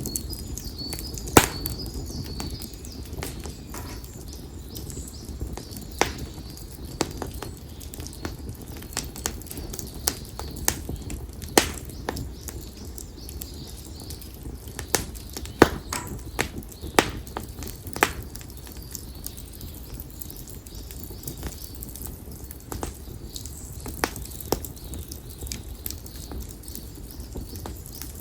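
Split konara oak firewood burning in an open fire: irregular sharp pops and crackles over a low rumble of flames. Faint bird chirps in the first few seconds.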